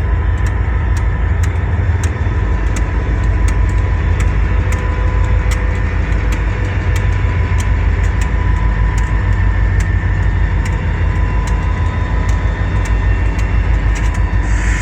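EMD SD40 diesel locomotives, each with a 16-cylinder two-stroke engine, running with a steady low rumble and a faint steady whine while the freight train backs slowly.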